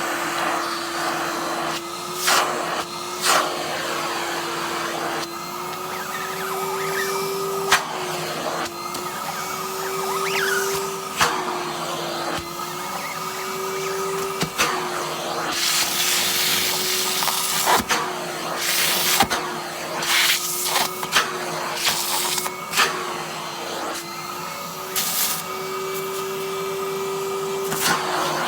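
Henry hoover vacuum cleaner running steadily while its nozzle is worked over a padded down jacket and its zips. The motor's pitch rises briefly several times, and sharp clicks and scraping noises come from the nozzle moving across the fabric and zips.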